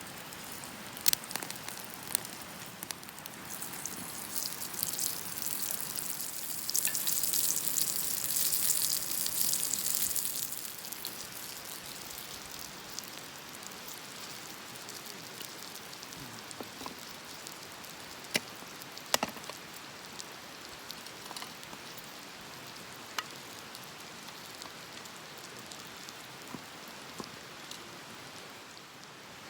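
Wood campfire crackling, with scattered sharp pops over a steady hiss. The hiss swells for several seconds near the start, then settles.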